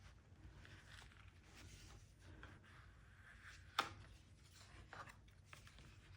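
Faint rustling of paper as the pages of a handmade collage book are handled, with one sharp tap or click a little before four seconds in.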